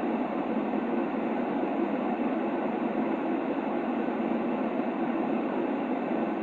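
Steady white noise for a baby's sleep: an even, unchanging hush, weighted low and dull rather than hissy.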